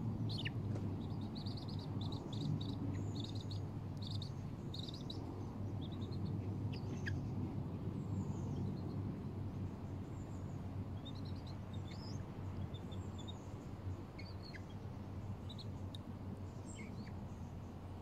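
Birds chirping: short, high calls come and go, in quick runs during the first few seconds and more scattered later, over a steady low rumble.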